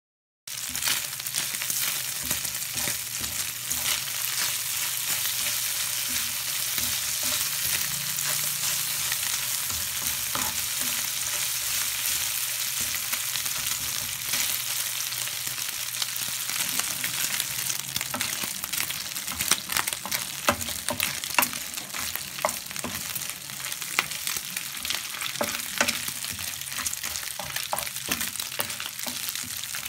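Chopped meat sizzling in hot fat in a nonstick frying pan while a spatula stirs it: a steady hiss with scattered sharp clicks and pops, which grow more frequent in the second half.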